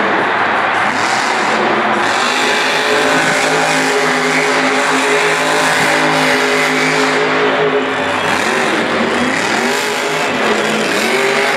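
Grave Digger monster truck's supercharged V8 engine running hard, held at a steady high pitch for a few seconds, then revving up and down repeatedly in the second half.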